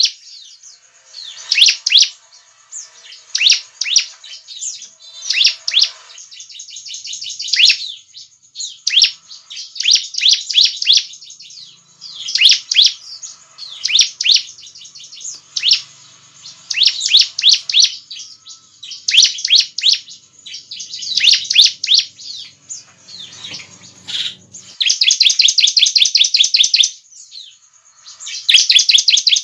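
Bar-winged prinia (ciblek) singing loud, rapid bursts of high chirping notes, each about a second long and repeated every second or two. Near the end comes a longer unbroken rapid trill of about two seconds.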